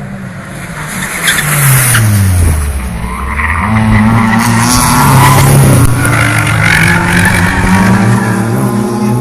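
Touring race cars braking into a tight corner, engine pitch dropping steeply as they slow, then tyres squealing and several engines accelerating out of the turn.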